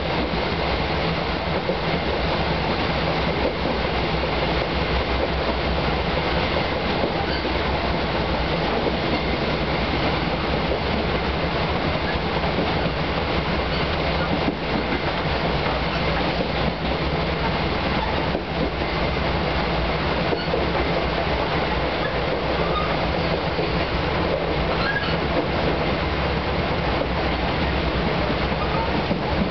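Cabin of an Iyo Railway 800 series electric train (ex-Keio 2010 series) running at speed: a steady rumble of wheels and running gear on the track, with a few faint clicks from the wheels crossing rail joints around the middle.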